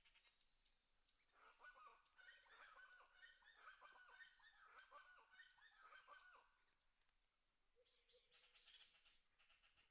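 Faint clucking of chickens: a run of short, repeated calls lasting about five seconds, then dying away, over faint high chirping.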